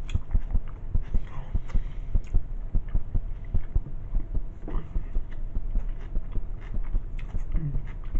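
Close-miked chewing and mouth sounds from eating a sandwich: a dense, irregular run of soft wet clicks and low thuds.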